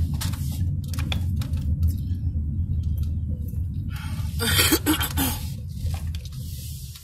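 Chewing and wet mouth noises from eating, over the steady low rumble of a moving car's cabin, with a louder noisy burst lasting about a second, around four and a half seconds in.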